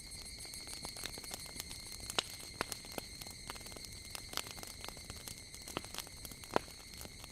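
Wood fire crackling, with sharp pops at irregular intervals over a faint steady hiss.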